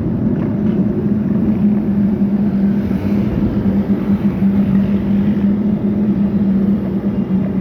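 Steady road noise while riding: a vehicle engine hums at a constant pitch, dipping slightly near the end, over a heavy low rumble of wind on the microphone.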